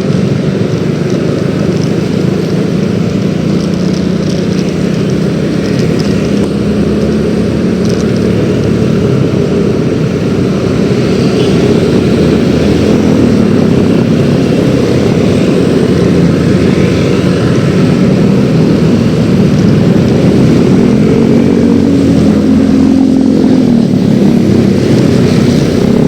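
Yamaha X-Ride 113cc single-cylinder automatic scooter running along the road, its engine note buried in heavy wind and road rumble. The engine pitch rises and dips a few times near the end.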